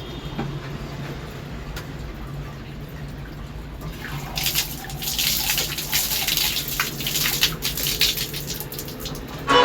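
Water running and splashing, starting about four seconds in as a loud, irregular hiss, over a low steady hum.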